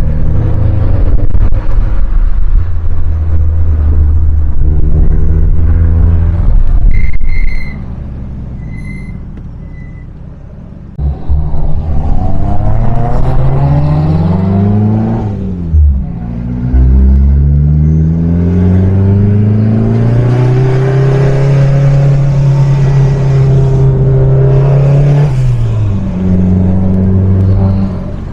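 Turbocharged Fiat Seicento engine running loud. After a quieter spell about 8 to 11 seconds in, it revs up again in rising sweeps, holds a steady higher drone, and drops back near the end.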